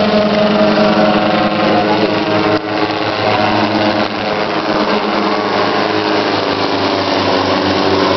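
Helicopter in flight: a steady, loud engine and rotor drone made up of several constant tones over a rushing noise.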